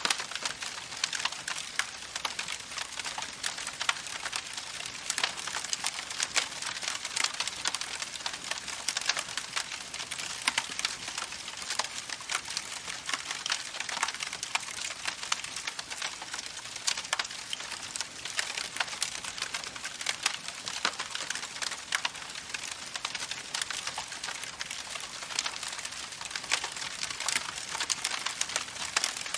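Wood campfire crackling, a steady bed of dense pops and snaps.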